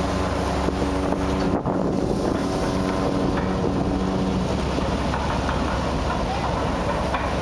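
A ship's engine running with a steady hum, with wind buffeting the microphone. The hum breaks off sharply about one and a half seconds in, comes back briefly, and gives way to rough wind noise for the rest.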